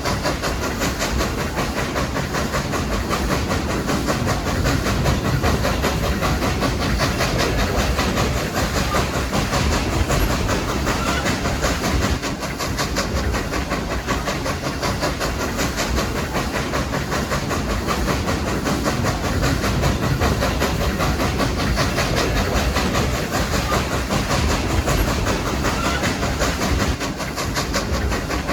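A steam-hauled passenger train running at speed, heard from a coach behind a Baldwin 2-8-2 steam locomotive: a steady, dense rumble and clatter of wheels on rail, with the locomotive's steam.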